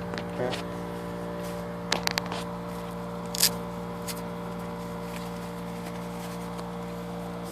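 A worn wheel bearing on a 1995 Plymouth Voyager being rocked by hand to show its play: a few loose clicks and knocks, a cluster about two seconds in and another about three and a half seconds in. Under them a steady mechanical hum cuts off suddenly near the end.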